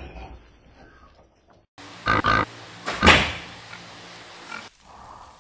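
Piglets squealing, with two loud cries about two and three seconds in.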